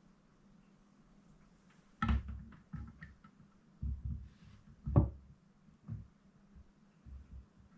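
A few dull, irregular thumps and knocks starting about two seconds in, the loudest about five seconds in, over a faint steady low hum.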